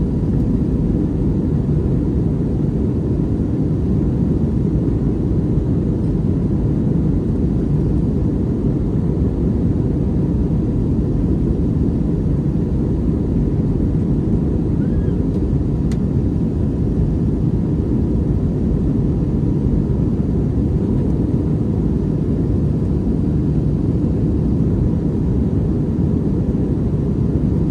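Steady cabin noise inside an Airbus A321neo in flight: a dense, even rumble of the engines and airflow.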